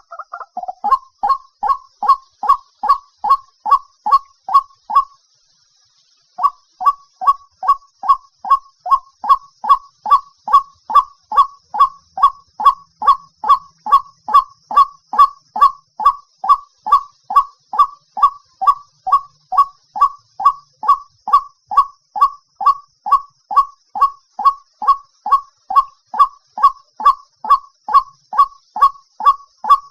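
White-breasted waterhen calling: a fast, even series of short honking notes, about two to three a second, broken by a pause of about a second around five seconds in. This is the species' repeated territorial call, used as a trapping lure.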